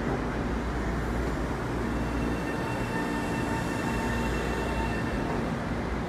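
Metro-North M7A electric multiple-unit train rolling slowly past along an underground platform: a steady low rumble of wheels and running gear. A thin whine from the traction motors comes in about two seconds in and fades out near the end.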